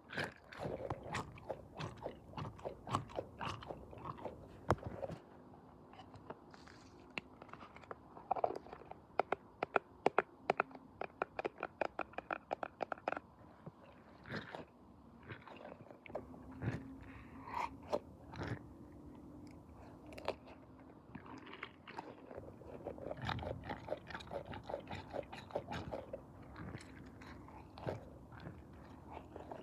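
Close-up crunching and clicking, irregular crackles with a quick regular run of about five clicks a second a third of the way through, over a faint steady hum.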